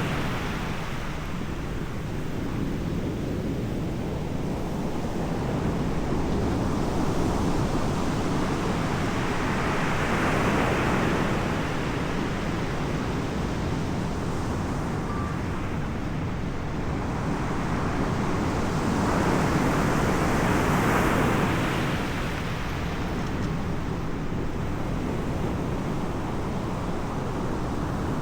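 Ocean surf: waves breaking and washing in, the noise swelling and fading about every ten seconds over a steady low rumble.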